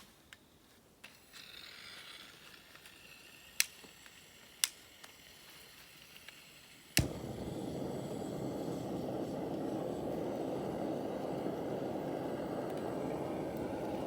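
Handheld gas burner being lit: a faint gas hiss with a couple of clicks, then a sharp click about halfway through as it catches, followed by the steady rushing noise of the burner flame.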